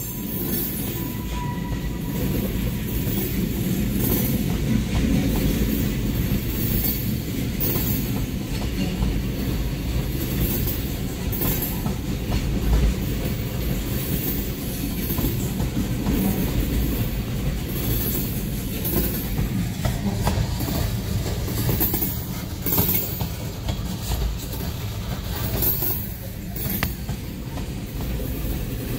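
Norfolk Southern freight train of coal hopper cars rolling past a grade crossing: a steady low rumble with the wheels clacking over the rail joints every second or two.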